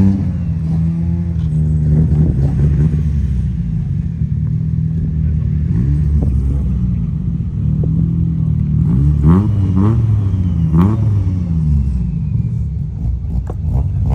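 Drift car engines revving, the pitch sweeping up and dropping back several times as the throttle is worked, over a steady low engine drone.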